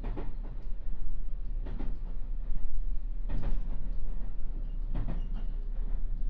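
JR West 221 series electric train running, a steady rumble with its wheels knocking over rail joints in pairs about every one and a half seconds.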